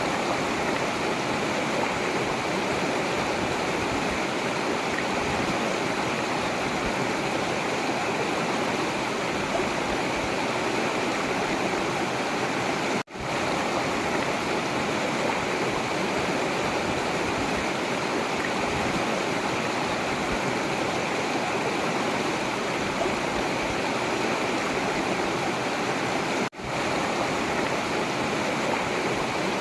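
Forest river flowing, a steady rush of running water, broken by two very brief gaps about 13 seconds apart.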